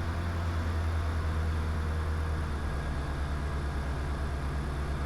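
Diamond DA20 light aircraft's piston engine droning steadily in flight, its low tone shifting slightly about two and a half seconds in.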